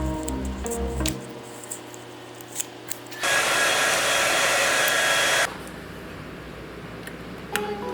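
A small electric motor tool runs for about two seconds with an even rushing whir and a faint steady whine, switching on and off abruptly; a few light clicks come before it. Background music plays at the start and returns near the end.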